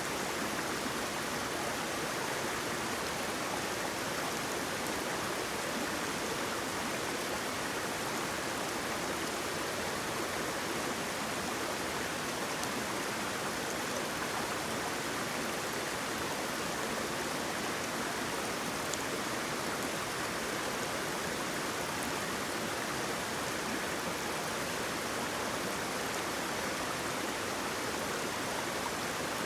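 Steady rush of flowing water from a stream or small waterfall, an even hiss with no changes.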